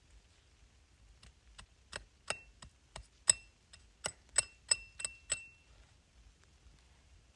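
A run of sharp taps or knocks, about three a second, growing louder, the stronger ones with a short metallic ring.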